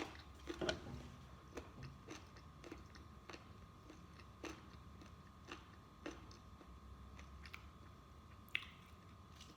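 Close-up chewing of fried chicken: scattered soft crunches and mouth clicks, about one a second.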